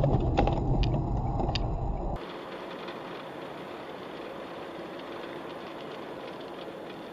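Vehicle road and engine rumble heard from inside a moving car, with a few sharp clicks, cutting off abruptly about two seconds in to a quieter, steady traffic hum.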